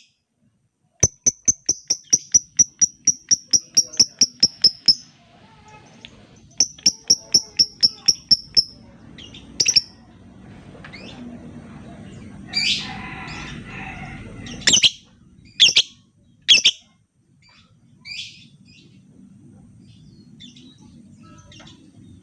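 Lovebird calling: two fast runs of sharp, high ticking notes, about four or five a second (the 'ngetik' chatter), followed by several loud, shrill single calls about a second apart.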